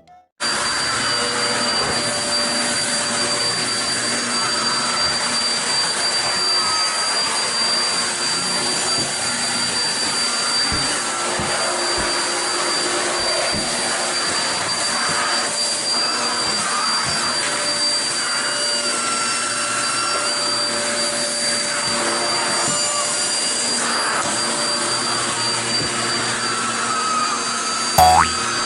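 Corded vacuum cleaner running steadily, its motor noise carrying a constant high whine, starting about half a second in. There is a brief sharp sound near the end.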